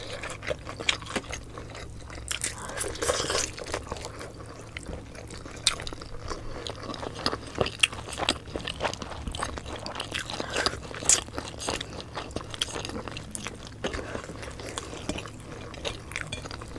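Close-miked chewing and biting of two people eating pork adobo and rice by hand: many small, irregular wet clicks and crunches.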